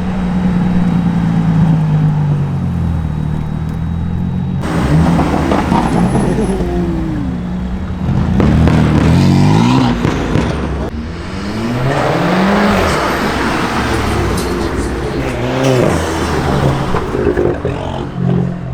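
Car engines running and revving, with the pitch rising several times as engines are blipped or cars pull away.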